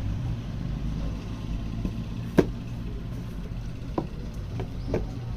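Engine running steadily at idle with a low hum, and a few sharp knocks over it, the loudest about halfway through.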